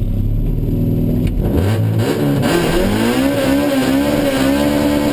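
Honda del Sol's B-series four-cylinder engine heard from inside the cabin, idling low, then revving up about a second and a half in and held high with the revs rising and dipping again and again, as the car waits at the line.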